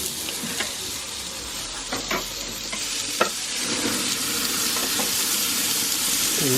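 Braai grill hissing and crackling, with scattered sharp pops, growing slightly louder.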